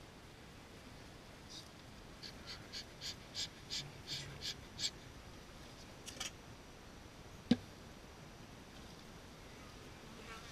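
A bird calling a rapid series of about a dozen harsh notes, about three a second, growing louder before stopping. A few seconds later comes a single sharp knock, the loudest sound.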